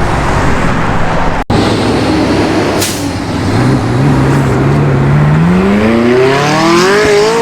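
A car accelerating hard away: its engine note climbs steadily in pitch over about four seconds, over a steady background of other engines and traffic. A short hiss comes about three seconds in.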